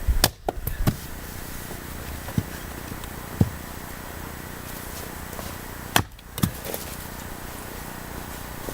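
Axe chopping firewood by hand: a sharp chop near the start and another about six seconds in, each with a quick follow-up knock, and a few lighter knocks of wood between.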